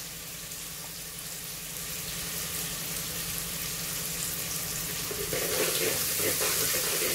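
Garlic, onion and ginger sizzling in hot oil in an aluminium pot: a steady frying hiss that slowly grows louder.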